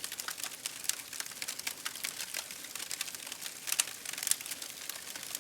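Campfire crackling: a dense run of irregular snaps and pops from burning wood over a steady hiss, with a few louder pops about four seconds in.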